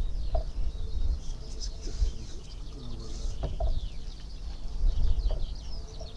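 Small birds chirping and trilling in a dense, continuous chorus, with a few short lower calls, over a steady low rumble.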